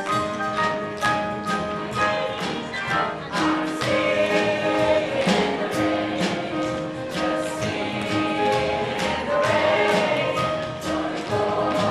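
Music from a stage musical number: several voices singing together over instrumental accompaniment, with a regular beat of sharp strokes.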